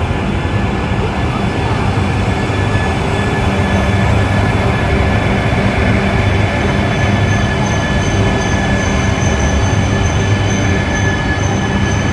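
E3 series Tsubasa Shinkansen train moving slowly past: a steady rumble of wheels on the rails, with the motors giving several steady whining tones. A higher steady whine joins about six and a half seconds in.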